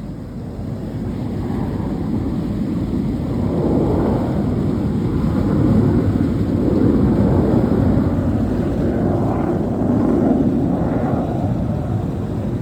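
Military jet aircraft passing overhead: a loud, deep rumble that swells over the first few seconds and then holds. It sits over the steady running of the tow boat's engine.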